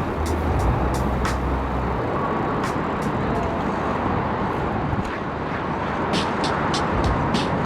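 Steady rushing of wind and road traffic, heard from a bicycle on the move, with a low hum in the first couple of seconds and a run of faint, evenly spaced high ticks near the end.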